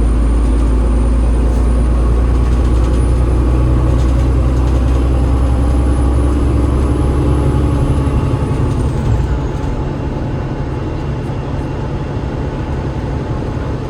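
Cummins ISL8.9 diesel engine and ZF EcoLife automatic gearbox of a double-deck bus running, heard from inside. A thin high whine holds steady, then slides down in pitch about nine seconds in, as the engine drone drops and gets quieter.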